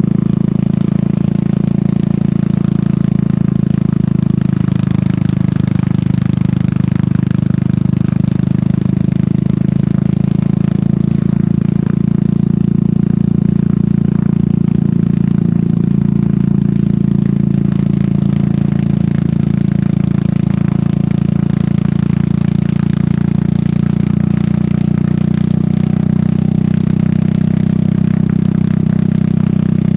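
Royal Enfield Meteor 350's single-cylinder engine running through an aftermarket sport exhaust while the motorcycle is ridden along at a steady engine speed.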